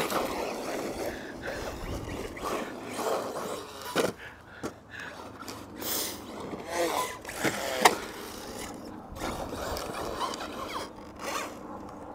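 Brushless RC truck running over loose dirt and gravel: irregular scrabbling and scraping of tyres with brief bursts of motor whine. There are sharp knocks about four and eight seconds in.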